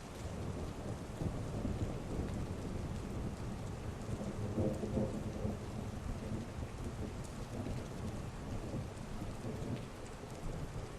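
Heavy rain falling steadily, with a rolling rumble of thunder that swells about four to five seconds in and then eases off.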